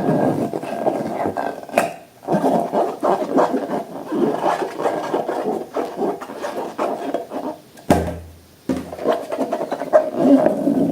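Hands squishing, stretching and kneading slime close to the microphone, a dense run of small sticky crackles and pops. About eight seconds in it breaks off briefly under a short low hum, then resumes.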